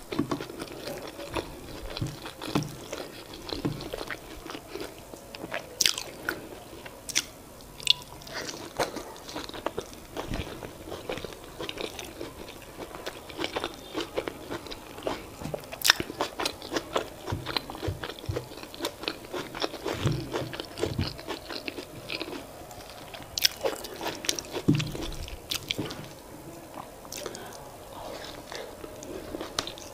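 Close-miked chewing and mouth sounds of someone eating boiled yam, sweet potato and vegetable sauce by hand: wet smacks and many sharp clicks at irregular intervals.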